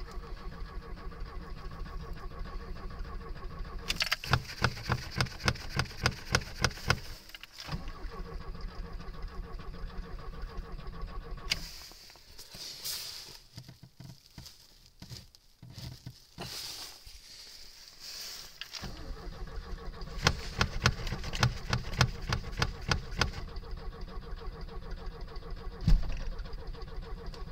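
A Lada's engine being cranked on the starter in hard frost, turning over in long stretches with rhythmic compression pulses and a pause of several seconds in the middle, without firing up yet. A single sharp knock near the end.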